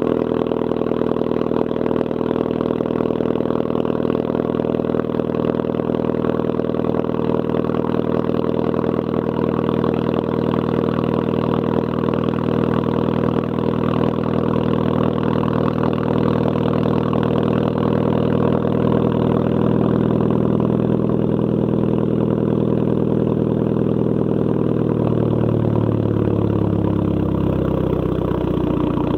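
Straight-piped exhaust of a 2.0 TSI turbocharged four-cylinder engine on a steady, raised cold-start idle. About 25 seconds in, the pitch falls as the idle speed settles lower.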